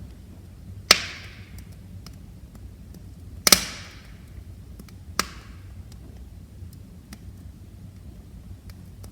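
Wood fire crackling in a fireplace: three loud pops, the loudest about three and a half seconds in, over faint scattered ticks and a low steady rumble.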